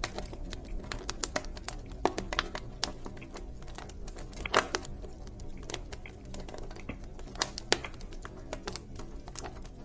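Wood fire crackling in a fireplace: irregular sharp pops and snaps over a low steady rumble, with a louder pop about halfway through.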